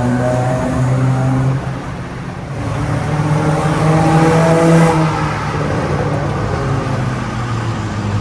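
Proton Saga BLM's four-cylinder engine running through a new full stainless steel exhaust and extractor. The note dips about two seconds in, builds revs to a peak near five seconds, then eases back.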